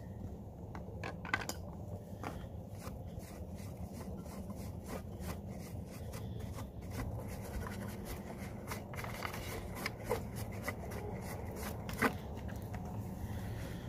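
A cloth rag rubbing and wiping over the plastic air-filter cover and engine shroud of a push mower, with scattered light scratches and taps, over a steady low background rumble.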